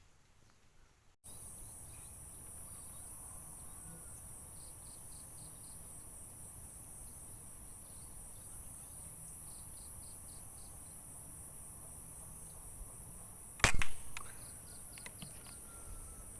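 A single sharp shot from a PCP air rifle, the loudest thing heard, about three-quarters of the way through, followed by a few faint clicks. Behind it, insects keep up a steady high-pitched trill.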